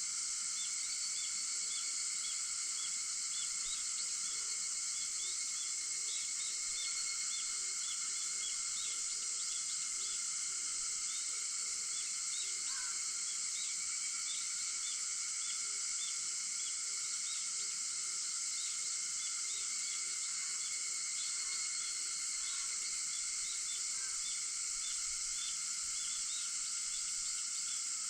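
A steady chorus of cicadas, with many rapid short chirps repeating throughout and one brief, separate call about halfway through.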